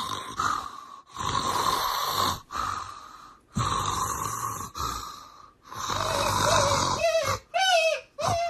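Loud, exaggerated snoring: three long snores about two seconds apart. From about seven seconds in, a quick run of short squeaky chirps, about two a second.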